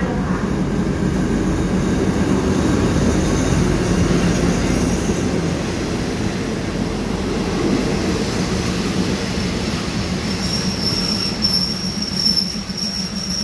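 Diesel-hauled passenger train pulling in alongside the platform, a steady low hum and rumble as the coaches roll past. From about ten seconds in, a high-pitched brake squeal joins as the train slows to a stop.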